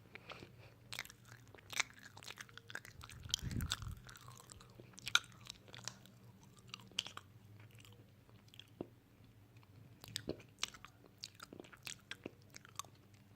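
Close-miked chewing: irregular crisp crunches and wet mouth clicks, with a dull low thump about three and a half seconds in.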